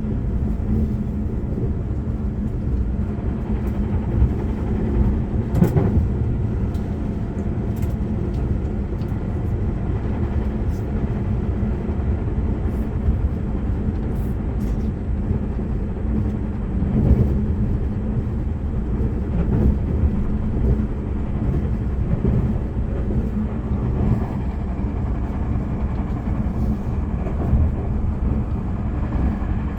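Running noise of a limited express train heard from inside the passenger cabin: a steady low rumble from wheels on rail, with scattered light clicks and a couple of louder swells.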